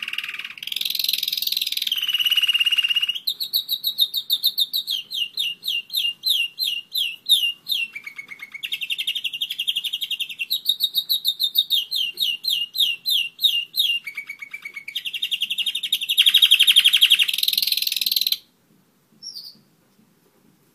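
A German roller-split canary singing a long song of rapid trills and rolls, one fast run of repeated notes after another. The song stops near the end, and one short note follows.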